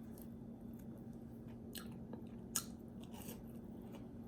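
Close-miked chewing of a fried dumpling, faint, with scattered small clicks and crunches and one sharper click about two and a half seconds in, over a steady low hum.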